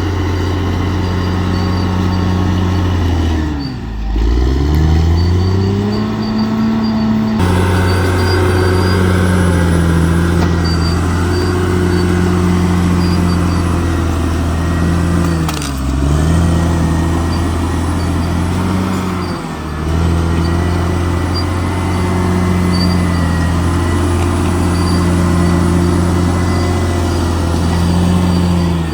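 Bulldozer's diesel engine running steadily at working revs. Three times its pitch sags sharply and climbs back over a second or two, as the engine pulls down under load and recovers.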